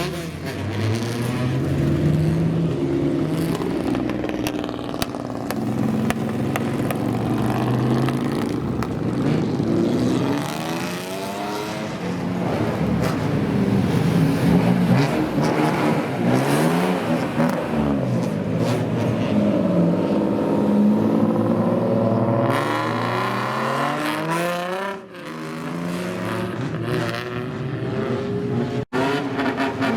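Loud exhaust of modified old Japanese street cars (kaido racers), engines revved up and down over and over, the pitch rising and falling with each blip. The sound breaks off briefly near the end and comes straight back.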